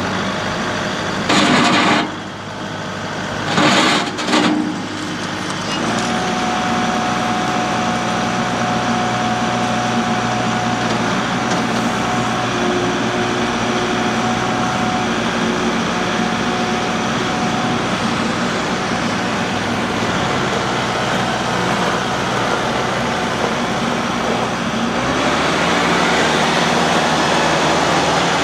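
Kubota MX5200's four-cylinder turbo diesel engine running, with two short loud bursts of noise in the first few seconds. The sound steps up in level about six seconds in and again near the end.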